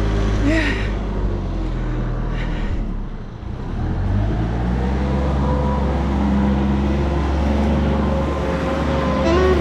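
A motor vehicle engine running steadily; it eases off briefly about three seconds in, then picks up again.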